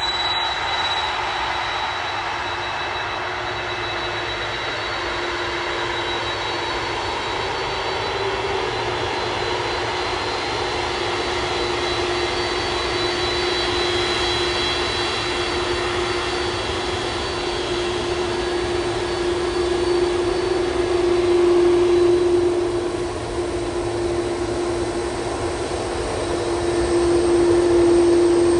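Jet airliner engines: a steady rumble with a held whine that swells louder twice in the last third.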